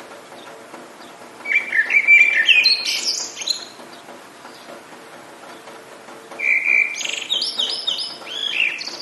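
A songbird sings two phrases of quick, sliding whistled notes, about a second and a half in and again near the end, over a steady hiss of rain.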